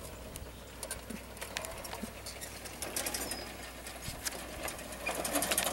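A lawn tractor with a 19-horsepower twin-cylinder engine clattering as it goes down the hill: a low steady hum with many irregular sharp clicks and rattles.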